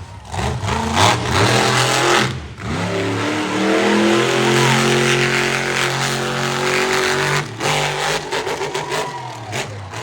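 Monster truck engine at full throttle: revs climb about two and a half seconds in, hold high and steady for several seconds, then drop sharply near the three-quarter mark and come back in short throttle blips.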